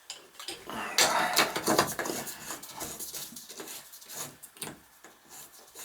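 Metal tools and valve parts clinking and scraping at a Symmons Temptrol shower valve: a busy run of clicks and scrapes, loudest from about a second in, thinning out toward the end.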